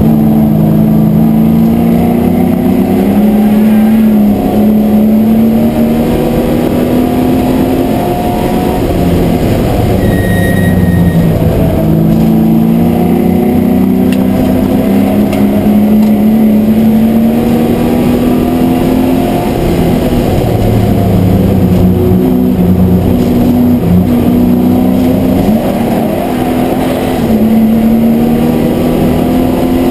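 MGB GT V8 race car's V8 engine heard from inside the cockpit, running hard at racing speed, its pitch climbing steadily and dropping back several times.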